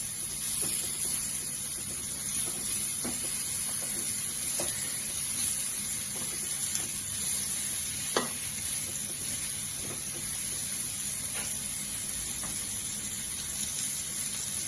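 Spice-coated slices of young ash gourd (chal kumra) sizzling steadily in a little oil in a frying pan over low heat, just after being turned over. A few light clicks sound through it, with a sharper one about eight seconds in.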